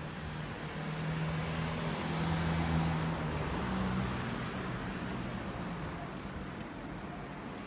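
A vehicle's engine hum grows louder and fades again over a few seconds as it passes, over steady outdoor noise.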